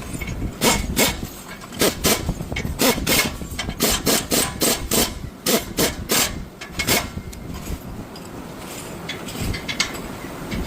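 Rapid, repeated scraping strokes of hand-tool work on the bolts of an engine's exhaust silencer, about three or four a second. After about seven seconds they thin out and grow fainter.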